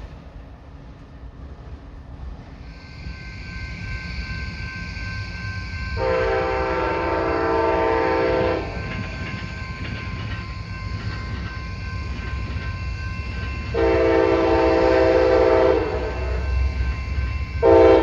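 Approaching train with a low rumble that grows louder, its locomotive air horn sounding a chord: two long blasts, then a short one starting near the end, the opening of a grade-crossing signal.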